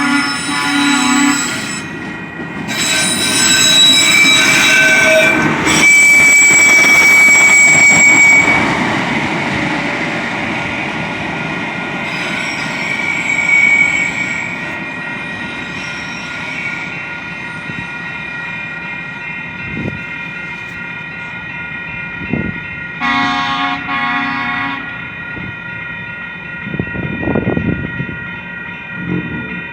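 Train going by: short pulsed horn blasts near the start and again about 23 seconds in, with a long, high wheel squeal and rail noise in between, loudest a few seconds in.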